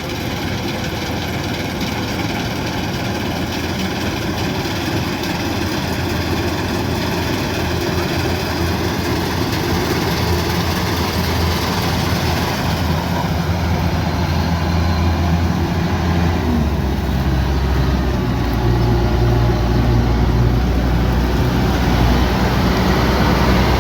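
Kubota DC108X combine harvester's diesel engine running steadily, growing gradually louder, with a deeper low tone coming in about two-thirds of the way through.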